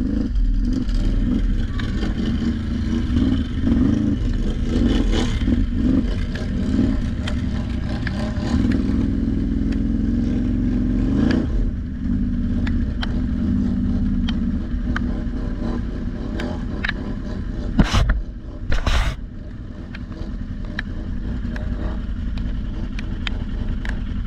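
ATV engine running under changing throttle, its pitch rising and falling as it climbs and eases off. Two sharp knocks come about a second apart near the end.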